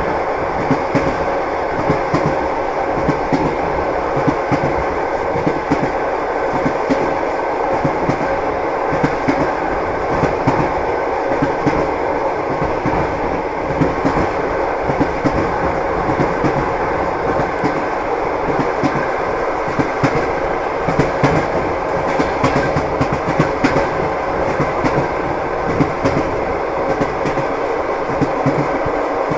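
Train wheels clicking over rail joints in a continuous, uneven stream of clacks over the steady rumble of a running train, with a faint steady hum underneath.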